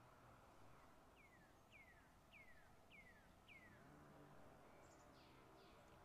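A bird calling faintly: a series of five falling notes, evenly spaced about half a second apart, over a quiet background hiss.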